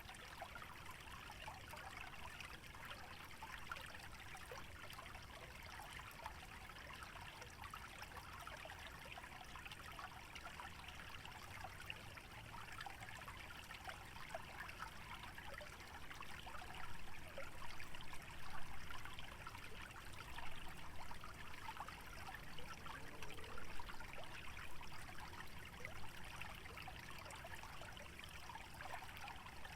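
Small stream trickling and gurgling steadily through a wetland, with a few louder swells about two-thirds of the way through.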